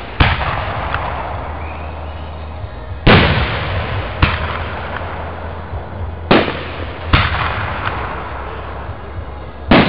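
Aerial fireworks going off: about six sharp booms spaced irregularly a second or more apart, each trailing away in a rolling echo.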